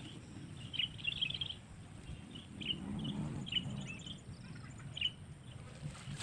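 Small birds chirping: short, high chirps, a quick flurry about a second in, then single chirps every half second or so until about five seconds in.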